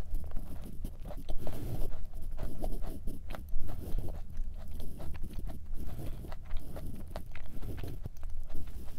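Close-miked chewing of a thick Levain-style chocolate chip cookie with the mouth closed: a run of small, irregular wet mouth clicks and soft crunches.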